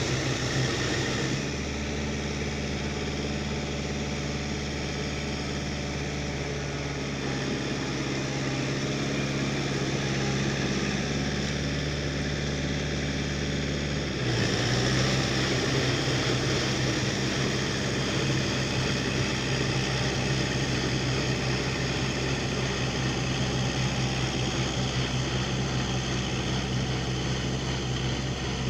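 Four-wheel tractor engine running steadily while working with a rotary tiller, its note shifting abruptly about a second in and again about halfway through.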